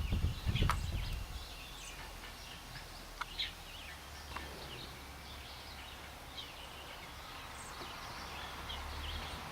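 Small birds chirping in short, scattered high notes, with a couple of low bumps in the first second.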